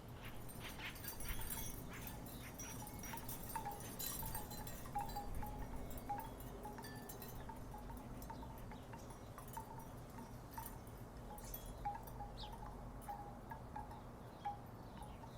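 Wooden tiki wind chimes knocking together in the breeze: irregular, hollow clonks, several a second at times, all at much the same pitch.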